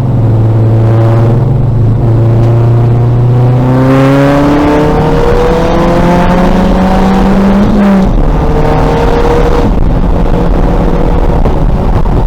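2000 VW Golf race car's engine under racing load: a steady note for the first few seconds, then revs climbing for about four seconds before dropping sharply at about 8 s, as in an upshift, and holding steady again.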